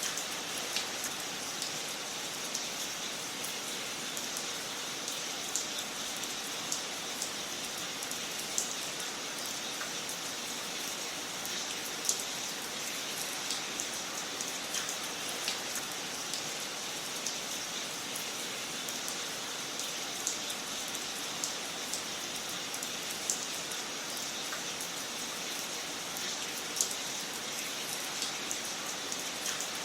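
Wood fire crackling in a fireplace: a steady hiss with sharp, irregular pops about every second or two.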